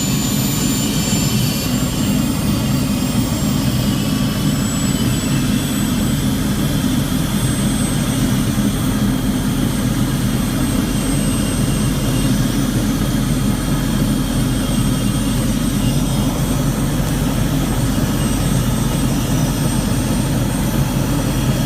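Helicopter turbine engine and rotor running steadily, heard from inside the cabin with the door open, with a loud, even rush of engine and wind noise.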